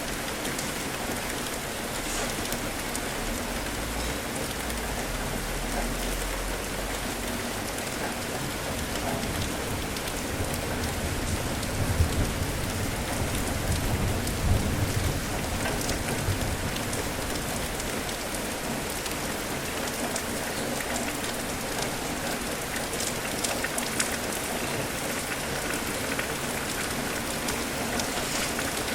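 Steady rain falling and pattering on surfaces, with a low rumble of thunder swelling in the middle of the stretch.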